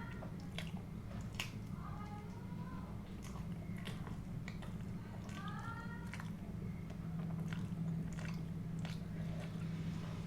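Close-miked mouth sounds of someone chewing and biting food, with scattered sharp wet clicks.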